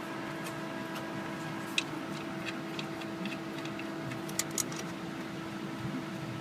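Scattered light clicks and taps, a few seconds apart, from hand tools and parts being handled during engine work, over a steady hum.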